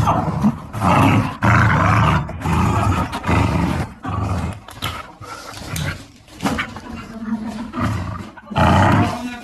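Dogs growling in rough play: a run of loud, gruff growls with short breaks between.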